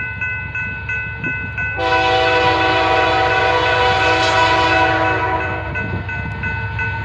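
Railroad crossing bell dinging about three times a second while an approaching train's multi-chime horn sounds one long blast of about four seconds, starting about two seconds in.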